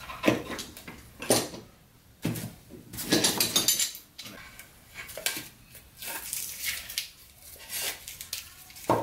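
Hard objects being handled and set down: a string of separate knocks and clatters about a second apart, with a longer rattling clatter around three seconds in.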